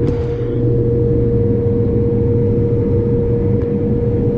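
Case IH 7088 Axial-Flow combine running under load while harvesting wheat, heard from the cab: a steady drone with a constant whining hum over it.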